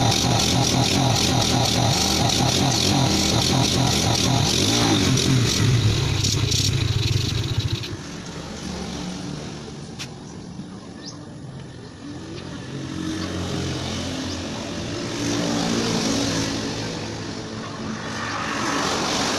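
Yamaha Vega motorcycle's small four-stroke single-cylinder engine running, loud with a fast ticking until about eight seconds in, then dropping abruptly to a quieter, uneven engine sound.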